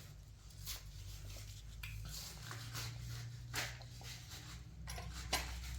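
A few scattered light clicks and knocks, about six, over a low steady hum.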